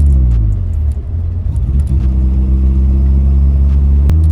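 Nissan 240SX engine running while driving. The revs fall away over the first second, the sound goes ragged briefly, and about two seconds in the engine settles back to a steady pitch. A single sharp click comes just before the end.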